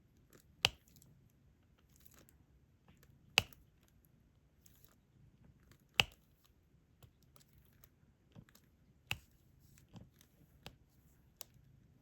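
Diamond-painting stylus pressing resin drills onto the canvas: sharp single clicks, three loud ones about two and a half seconds apart, then four softer ones in quicker succession near the end.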